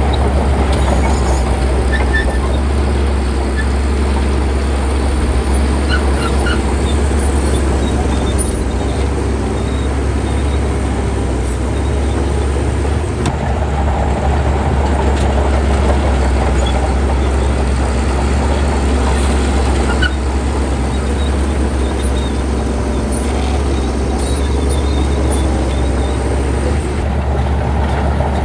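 Heavy diesel engine of a bulldozer running steadily with a deep, constant drone.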